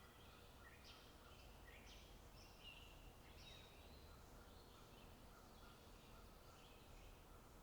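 Faint birdsong: small birds chirping and twittering in short notes, several a second, over a low wind rumble.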